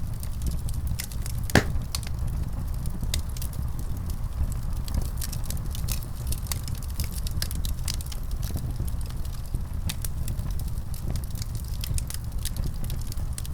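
Fireplace fire crackling: a steady low rumble with frequent small sharp pops, and one louder pop about a second and a half in.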